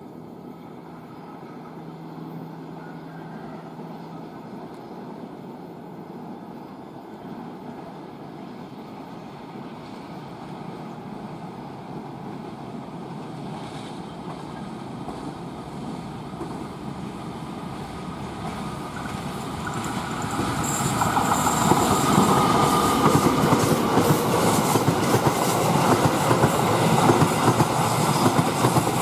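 A train approaching and growing steadily louder, then passing close from about 21 seconds in, with a fast run of wheel clacks over the rail joints and rattling carriages.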